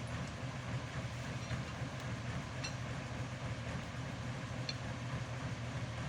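Vintage army 4x4 truck engine running steadily, a continuous low drone with a few faint clicks over it.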